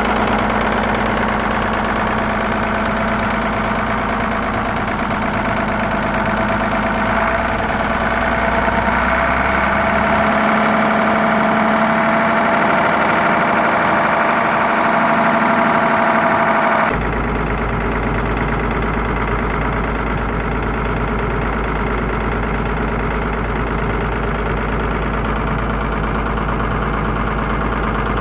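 Leyland Panther's mid-mounted flat-six diesel running steadily at idle. It picks up speed from about eight seconds in, runs a little faster and louder for several seconds, then drops back suddenly to idle about seventeen seconds in.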